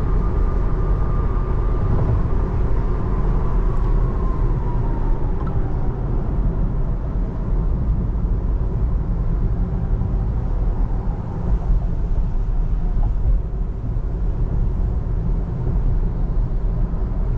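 Steady road and tyre noise inside the cabin of a Tesla Model 3 on a wet highway. A faint whine slides down in pitch during the first several seconds as the car slows for congestion ahead.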